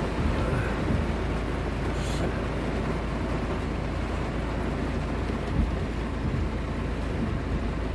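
Heavy rain falling steadily: a dense, even rush of noise over a low rumble.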